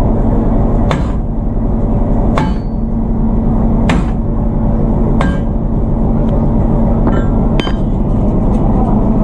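A locomotive engine running steadily with a low hum, while sharp metallic clanks ring out about six times at uneven intervals, as the locomotive is being coupled to the train.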